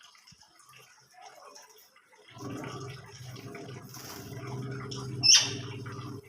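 Small cage birds chirping, with one loud, sharp call about five seconds in, over a low steady hum that starts a little after two seconds.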